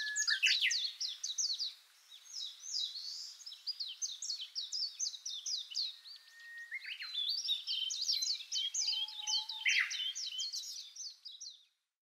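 Small songbirds twittering: rapid runs of high, quick falling chirps in three spells, with short pauses about two seconds in and again past the middle, stopping just before the end.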